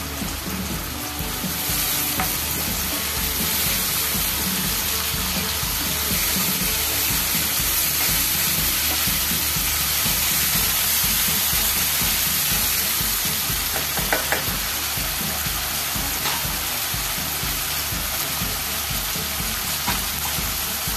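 Onions and tomato and green chilli paste frying in hot oil in a nonstick kadai, sizzling steadily while a spatula stirs them, with a few short clicks about two-thirds of the way through.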